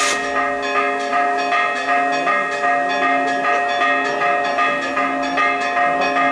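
Bells rung rapidly, struck about three to four times a second, with their tones ringing on between strokes.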